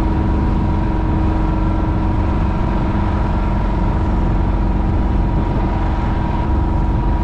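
Sailboat's inboard engine running steadily under way, a constant hum over a heavy low rumble, with wind and water noise.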